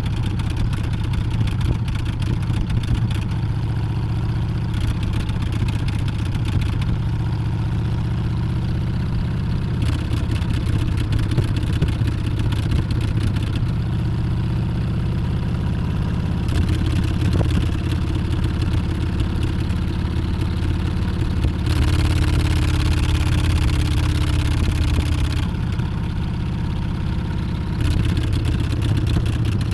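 Harley-Davidson Street Bob's V-twin engine running under way, its pitch drifting up and down a little as the revs change. A louder stretch with more hiss comes about twenty-two seconds in.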